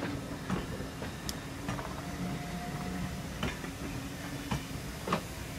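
Vintage railway carriages rolling past, their wheels giving irregular sharp clicks and knocks over the track over a steady rumble, with a brief faint squeal near the middle.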